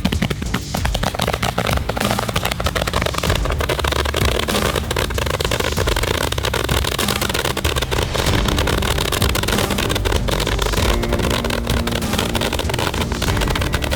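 Dozens of Roman candles firing at once: a dense, rapid stream of pops over a heavy rumble, continuing without a break.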